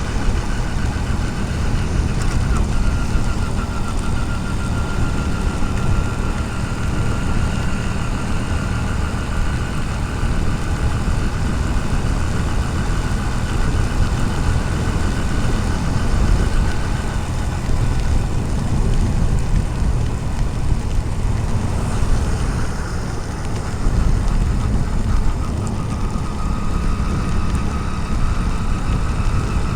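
Motorcycle engine running steadily on the move, under a continuous rush of wind and rain noise on a helmet-mounted action camera.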